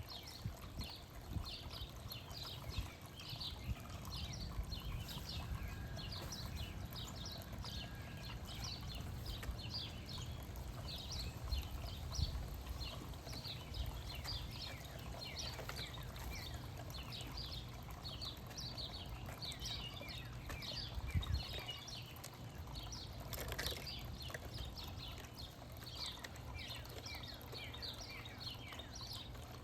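Songbirds chirping: a dense, continuous twitter of short, high, falling chirps, over a low rumble of background noise.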